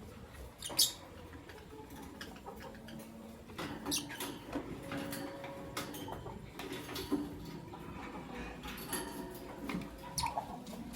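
Lovebirds chirping: short, shrill chirps and squeaks scattered irregularly, the loudest about a second in.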